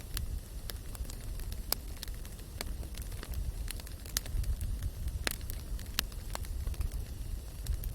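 Campfire burning: wood crackling with irregular sharp pops, about a dozen, over a steady low rumble.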